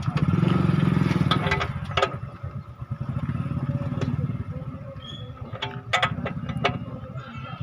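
Tractor diesel engine running, louder for about the first two seconds and then settling to a steadier run. Scattered metallic clicks and clanks over it.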